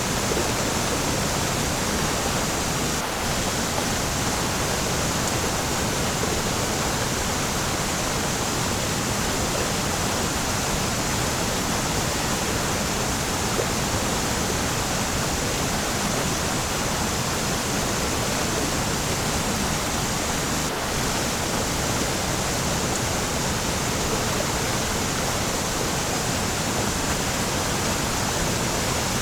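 Waterfall rushing, a steady, even roar of falling water with no change in level.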